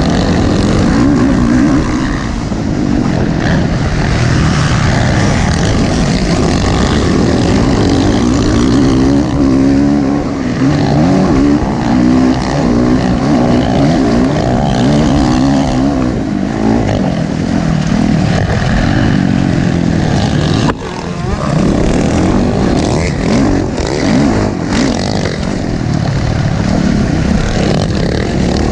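Motocross dirt bike engines revving up and down in pitch, running continuously with one brief break about 21 seconds in.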